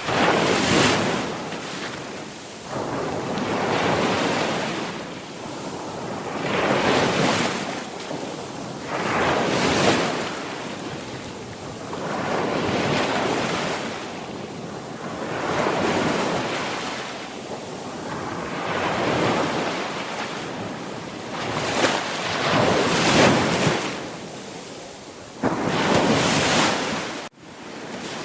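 Sea waves breaking and washing up a shore, rising and falling in swells about every two to three seconds. There is a sudden split-second gap near the end.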